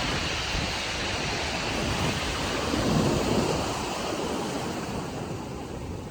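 Pacific surf washing on the beach, with wind buffeting the microphone; the wash swells about three seconds in and then eases.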